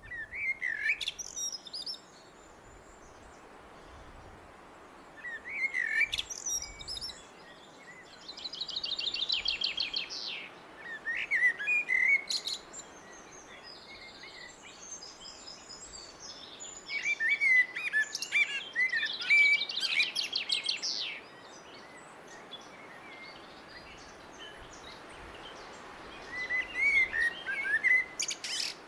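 A blackbird singing: about six separate song phrases with pauses between them, each a warble that breaks into higher twittering. Two phrases carry a fast rattling trill. A steady outdoor hiss lies underneath.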